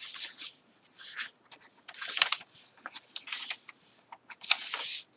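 Paper pages and pockets of a handmade journal being turned and handled: a series of short, crisp paper rustles about a second apart.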